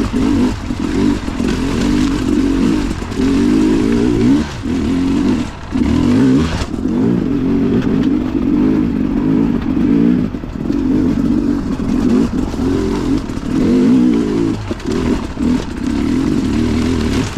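Enduro dirt bike engine under way, its revs rising and falling as the throttle is opened and rolled off, with a few brief dips where it backs off.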